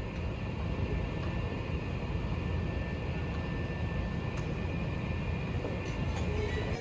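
Steady low rumble and hum of a moving vehicle, heard from inside, with no change through the stretch and an abrupt cut at the end.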